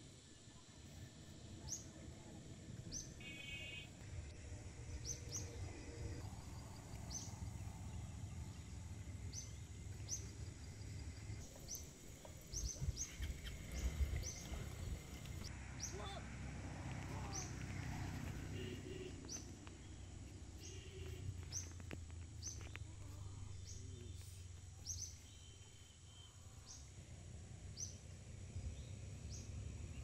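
A bird chirping repeatedly, short rising calls about once a second, over a steady low rumble of outdoor background noise. A few louder knocks and rustles come about halfway through.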